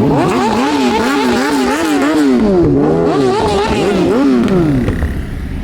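A vehicle engine being revved over and over in quick throttle blips, its pitch rising and falling about twice a second, then easing off near the end.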